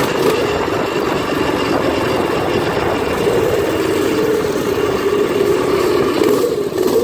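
Predator 212cc single-cylinder four-stroke engine on a Doodlebug minibike running steadily, its pitch wavering a little and dipping briefly near the end.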